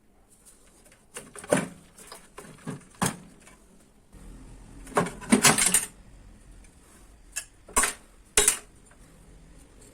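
Metal parts of a microwave magnetron clinking and knocking as they are handled, with several separate sharp hits, a burst of clinks about halfway through and two more sharp knocks near the end.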